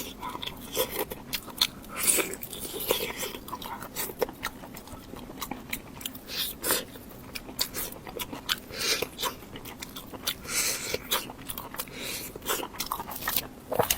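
Close-up eating sounds: biting and chewing crunchy food, with a dense, irregular run of crackly clicks and crunches.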